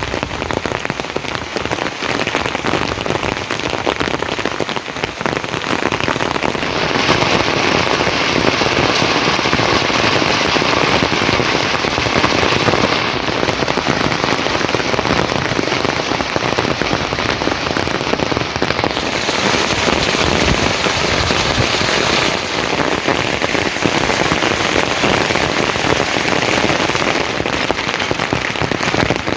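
Rain falling steadily, a dense hiss of drops on surfaces that grows louder and brighter about a quarter of the way in and changes character abruptly a few more times.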